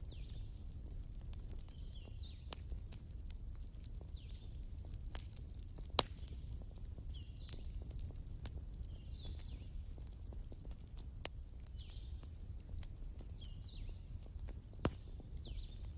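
Wood fire crackling: sparse sharp pops over a steady low rumble, with short high chirps every second or two.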